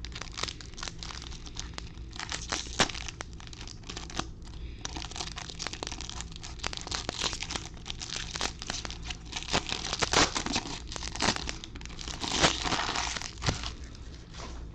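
Trading-card pack wrapper being torn open and crinkled, a continuous crackling rustle with louder bursts of tearing about two and a half seconds, ten seconds and twelve and a half seconds in.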